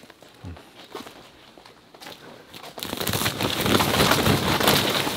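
Greenhouse plastic sheeting crinkling and crackling as it is pushed from inside to shed its load of snow. Fairly quiet with a few faint clicks at first, then a dense crackling starts about three seconds in and keeps going.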